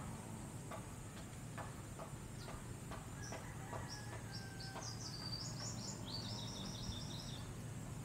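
A small bird singing a quick run of high chirping notes from about three seconds in until near the end, over a steady low background of wind, with scattered faint clicks.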